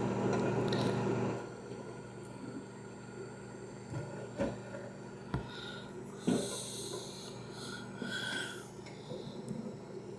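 Microwave oven running with a steady hum, loud for about the first second and a half, then fainter. A few knocks and rubbing handling noises sound over it.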